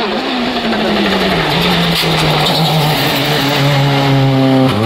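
Rally car engine at high revs: its note drops over the first second and a half, holds with small steps, then climbs again toward the end as the car accelerates.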